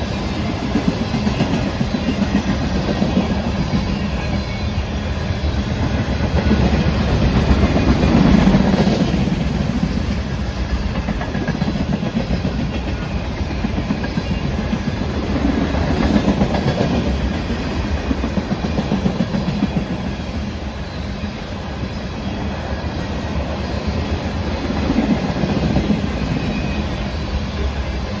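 Train cars rolling past at close range, wheels clattering over the rail joints in a continuous stream that swells louder every several seconds.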